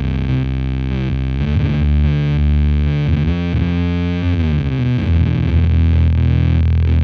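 Electric guitar played through a Devi Ever BDSM (Big Distortion Sound Machine) fuzz pedal into a mic'd Laney VC30 valve amp: thick, bass-heavy fuzz on sustained notes and chords, with notes bent up and back down about halfway through.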